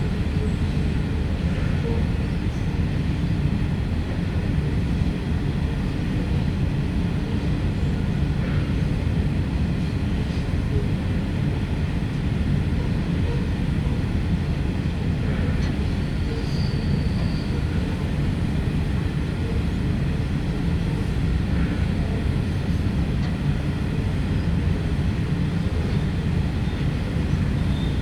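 Loaded coal train hauled by diesel locomotives running by, a steady low rumble that stays even throughout, with a brief high squeal about two-thirds of the way through.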